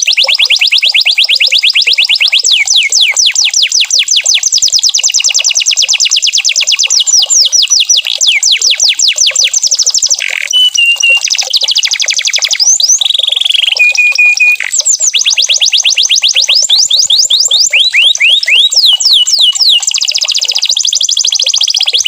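Domestic canary singing without a break: long, fast trills of repeated falling notes, with a few short held whistles about halfway through.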